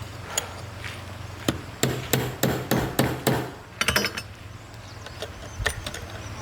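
Hammer blows in a workshop: a single strike, then a run of about eight blows roughly three to a second, a few more close together, and a last one near the end. A steady low hum runs underneath.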